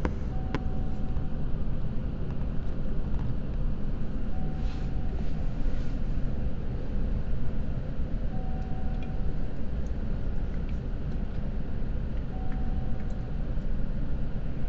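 Steady low hum and rumble of an electric train standing at the station with its on-board equipment running. A short electronic beep repeats about every four seconds.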